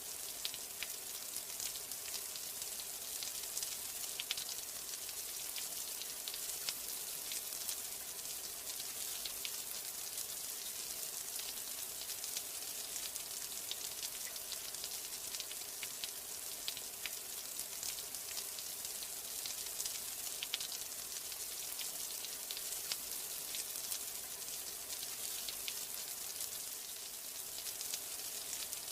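Steady rain: an even hiss of fine drops, scattered with many small ticks of individual drops.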